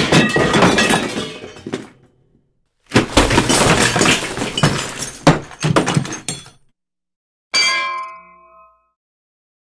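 Metal pots and pans clattering and banging together in two long, dense bursts of many impacts, then a single clang that rings on with a clear metallic tone for about a second.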